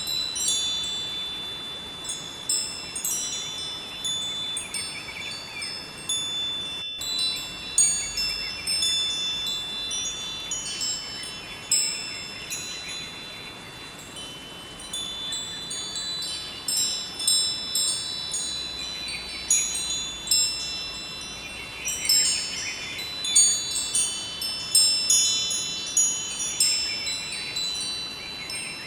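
Wind chimes ringing in irregular, overlapping strikes of high, lingering tones, over a faint steady rush of flowing river water.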